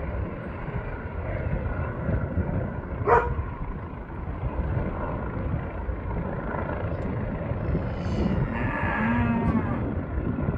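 Helicopter rotor and engine noise, a steady low rumble as it descends. A sharp click comes about three seconds in, and an animal calls once near the end.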